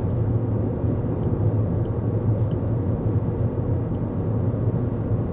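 Steady road and tyre rumble of a 2024 Toyota Corolla Cross cruising at highway speed, heard inside the car.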